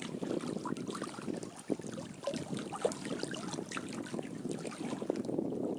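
Water trickling and lapping, with many small ticks and splashes.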